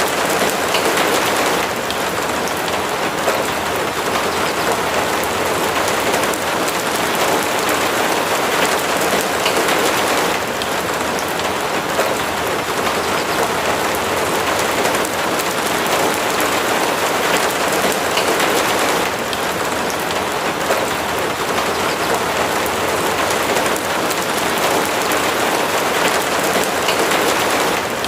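Steady rain falling on a cabin's roof and surroundings, a dense continuous patter of drops that swells slightly in intensity every several seconds.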